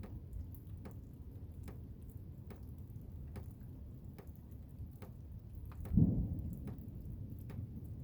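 Blizzard wind blowing as a steady low rumble, with one louder low thump about six seconds in. Faint regular ticks, a little under one a second, run underneath.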